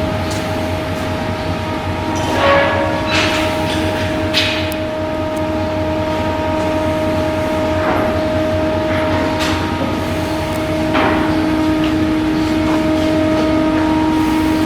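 Steady machinery hum with a constant drone and low rumble, broken by a few short sharp metallic knocks and clanks at irregular intervals.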